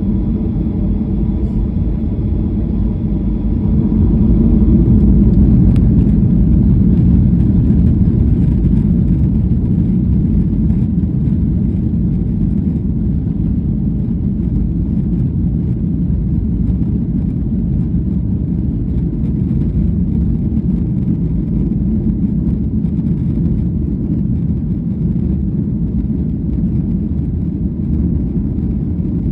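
Airliner cabin noise: a steady, deep rumble of the engines and airflow heard from inside the passenger cabin, swelling slightly a few seconds in.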